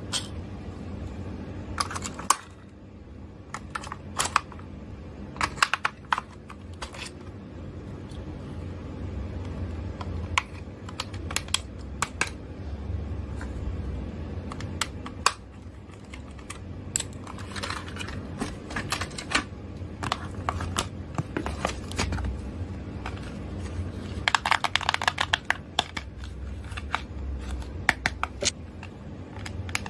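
Scattered sharp clicks and taps of small hard-plastic toy parts being handled, with a quick run of clicks about 24 seconds in, over a low steady hum.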